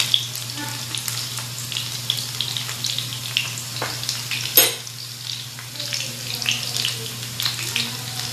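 Battered chicken strips shallow-frying in oil in a pan, sizzling with a steady crackle of small pops over a low steady hum. A single sharp click stands out about four and a half seconds in.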